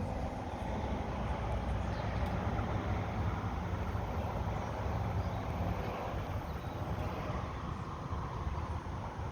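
Volkswagen Corrado's VR6 engine idling steadily in the engine bay.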